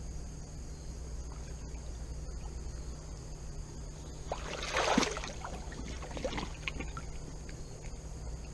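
Water sloshing and splashing, with a louder splash about five seconds in and smaller splashy ticks after it, over a steady high insect drone.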